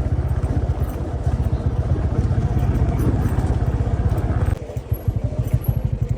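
Motor vehicle engine running while driving on a rough dirt road, with a fast low pulsing throughout and an abrupt shift about four and a half seconds in.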